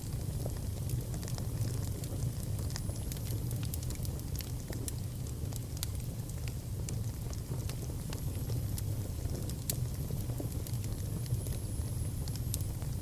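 Wood fire burning in a fireplace: a steady low rumble with scattered crackles and pops, and a few faint high whistles now and then.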